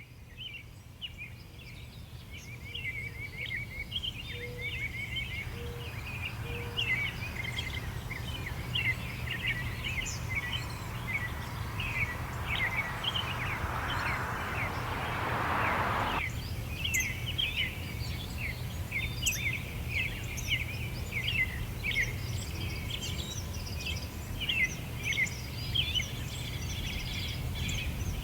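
Many small birds chirping and twittering continuously over a steady low rumble. A hiss swells from about six seconds in and cuts off abruptly at about sixteen seconds.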